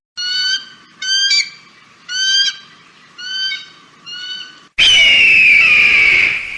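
Bird of prey calling: five short, high, rising calls about a second apart, then a long, loud, slightly falling scream about three-quarters of the way in.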